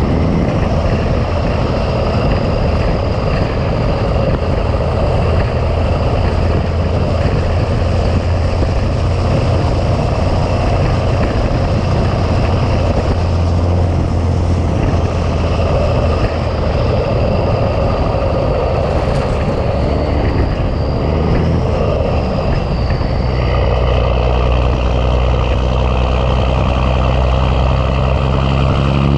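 Big Cam Cummins inline-six diesel in a 1986 Ford LT9000 tractor running steadily under way. About 23 seconds in, its note changes and deeper, steadier tones come in. Near the end the pitch starts to climb as the engine revs up.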